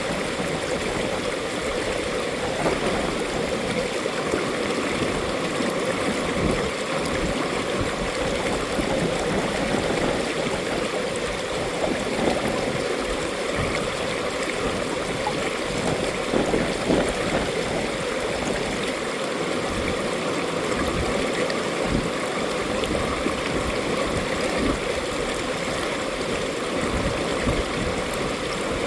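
Mountain valley stream: water running and gurgling over rocks in a steady, dense rush.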